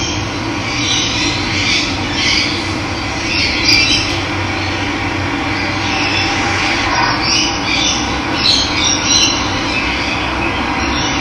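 Steady rush of running water, with birds calling over it in short, scattered calls.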